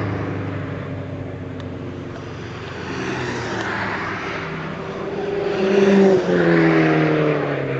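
Car engines running past on a race track. One car comes closer and passes about six seconds in, its engine note rising as it nears and then dropping as it goes by.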